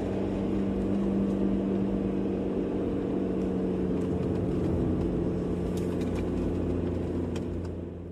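Steady low drone of a car driving, engine and road noise together, fading out near the end.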